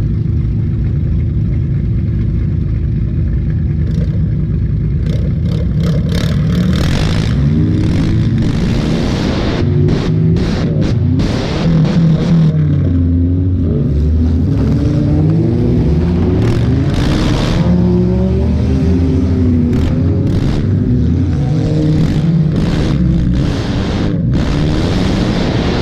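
Car engine running hard in a junk car race, heard from onboard. It runs steadily at first, then from about six seconds in it revs up and down again and again, with knocks and rattles from the car.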